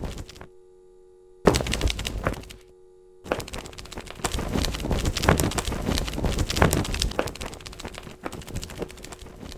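Dense flurries of rapid flapping and clattering, like a flock of birds' wings beating in an attack. They cut in and out abruptly: a short burst at the start, another about a second and a half in, then a long continuous flurry from about three seconds on.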